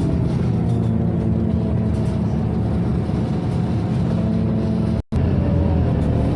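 Interior of a Scania OmniCity city bus: the engine and ventilation blowers running steadily with a constant low hum. The sound cuts out for an instant about five seconds in.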